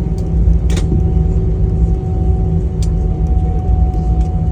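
Airliner cabin noise during taxi after landing: a steady low rumble with a constant thin whine, and a couple of brief clicks.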